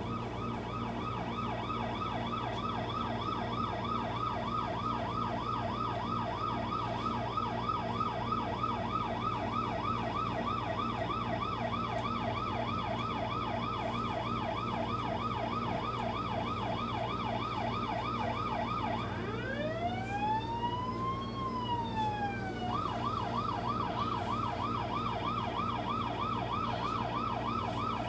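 Electronic fire engine siren in a fast yelp, about three sweeps a second, over a steady low hum. About two-thirds of the way through it switches to one slow wail rising and falling, then goes back to the fast yelp.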